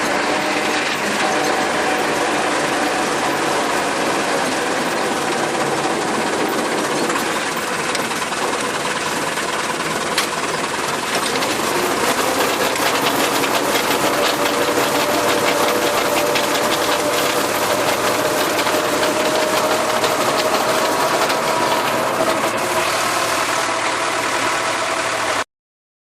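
Farm tractor engine running with a rotary tiller working: a steady mechanical din with a dense rattle and a faint steady whine, cutting off suddenly near the end.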